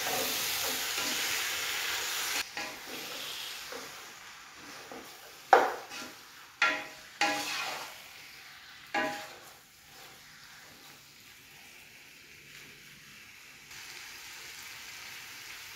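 Raw beef and onion-tomato masala sizzling in hot coconut oil in a large pan as they are stirred with a wooden spatula. The sizzle is strongest at first, then settles to a faint steady hiss. In the middle stretch the spatula knocks against the pan four times, each knock ringing briefly.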